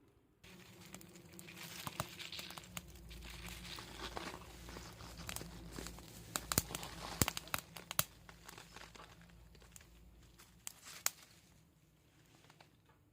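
Small wood fire burning, dry tinder and twigs crackling and crinkling, with scattered sharp pops, the loudest in the middle.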